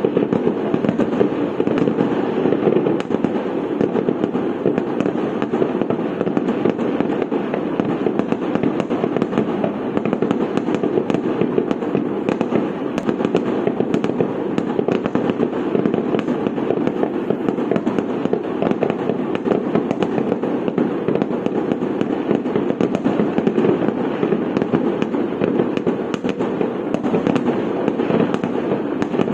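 Fireworks and firecrackers going off in a dense, continuous crackle of rapid pops that never lets up.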